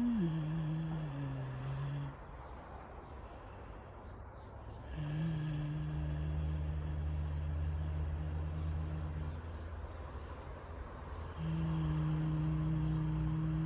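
A person humming long, steady low notes in a slow tune, in three drawn-out phrases with pauses between them. High, quick bird chirps repeat several times a second throughout.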